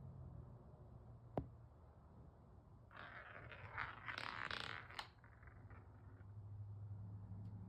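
Marbles on a wooden marble run track: a single sharp click, then a couple of seconds of rolling and rattling with several clicks about halfway through.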